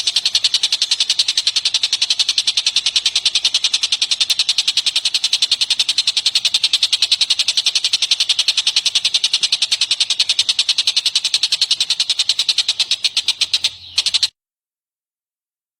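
A bird's fast, even rattling call: a long unbroken series of high, sharp ticks that stops abruptly near the end.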